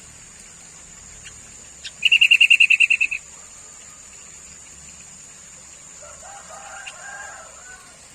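Sooty-headed bulbul calling: a loud, rapid chatter of about a dozen sharp notes lasting about a second, then soft, lower warbling phrases near the end. A steady high-pitched whine runs underneath.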